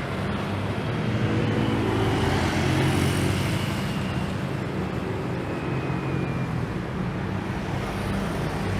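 Jet airliner landing: a steady low engine rumble with faint whining tones above it.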